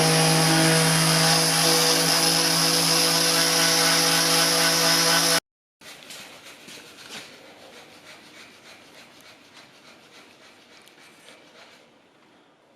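Electric power tool running at a steady pitch, stopping abruptly about five seconds in; afterwards only faint workshop noise.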